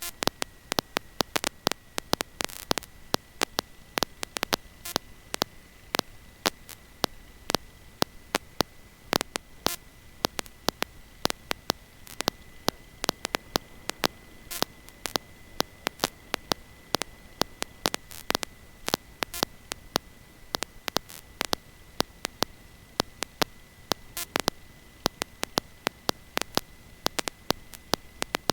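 Electrical static on the audio line: irregular sharp crackling clicks, a few a second, over a low hiss and a steady high-pitched tone.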